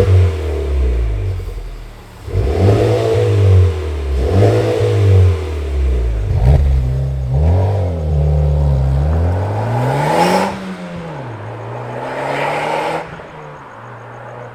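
Honda Civic Type R engine blipped through a Blitz Nur-Spec cat-back exhaust, revved up and dropping back about half a dozen times, the highest rev about two-thirds of the way through, then settling to idle near the end. The new exhaust is louder than stock, with a growl.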